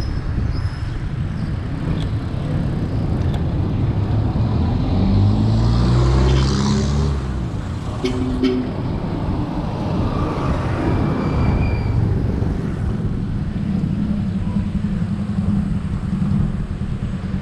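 Road traffic passing close by while riding, with wind rumbling on the microphone. A vehicle's engine swells and fades about a third of the way in, followed by a short horn toot, and an engine hums steadily near the end.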